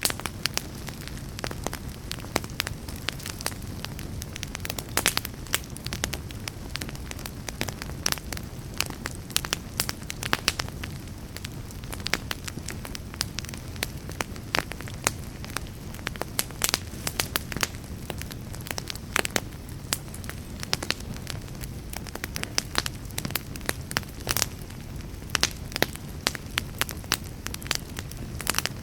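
Wood fire crackling in a fireplace: frequent, irregular sharp pops and snaps over a steady low rush of burning.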